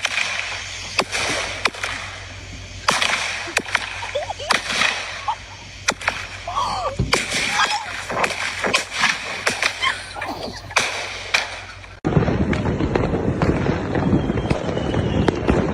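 Firecrackers going off in an irregular series of sharp bangs and cracks. About twelve seconds in, the sound cuts abruptly to a dense, steady rough noise.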